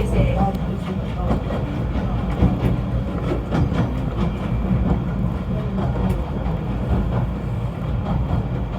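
Snowdon Mountain Railway rack train running: a steady low rumble with frequent knocks and clicks from the wheels and track.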